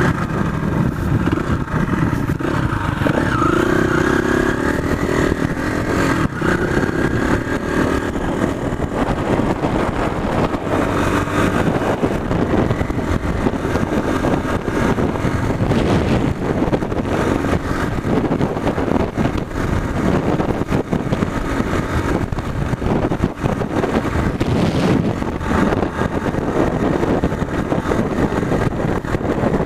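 Motorcycle being ridden, its engine running steadily under a continuous rush of riding noise.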